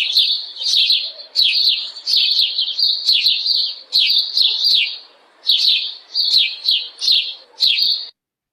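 A songbird chirping: quick, high, downward-sliding chirps in short runs, repeated over and over, then cut off sharply near the end.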